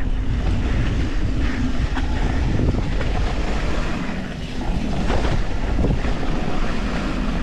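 Wind buffeting an action camera's microphone as a YT Industries Capra mountain bike descends a wet, rocky trail, a steady rumble with scattered knocks and rattles as the tyres and frame hit rocks.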